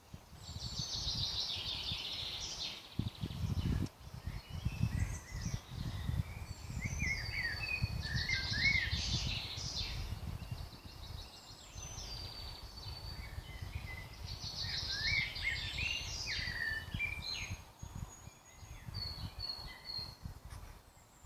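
Spring woodland birdsong: several birds singing varied, rapid phrases of whistles and trills, with a low, uneven rumble underneath.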